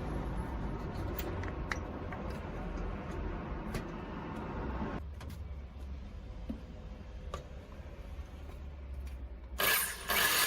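A steady low mechanical rumble, as of a running motor, that drops away about five seconds in. It leaves a faint hum with scattered clicks, and a loud harsh noise starts near the end.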